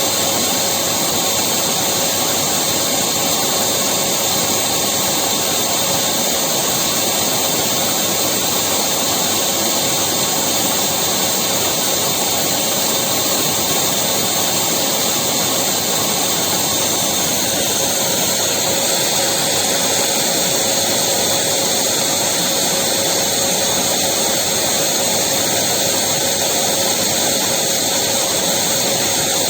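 Electric vacuum cleaner running steadily: a constant motor whine and rush of air with no change in speed.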